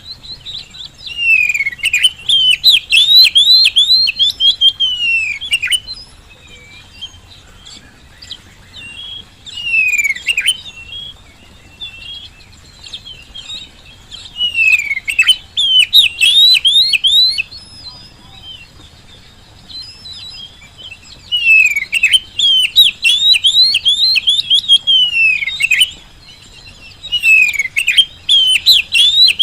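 Oriental magpie-robin (kacer) singing loud phrases of rapid, varied whistles and chirps, five bursts of a few seconds each with short pauses between.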